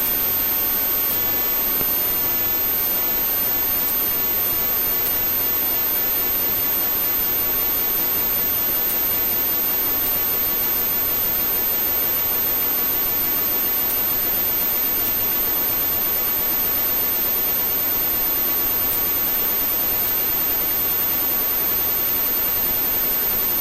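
Steady, even rushing noise of the police helicopter's engine and rotors heard through the crew's intercom, with a thin high-pitched whine over it.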